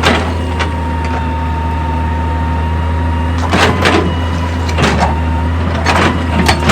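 Heavy machinery's diesel engine running steadily with a thin whine, over scattered sharp metal clanks and knocks a second or more apart. Right at the end a fast run of hammering strikes begins.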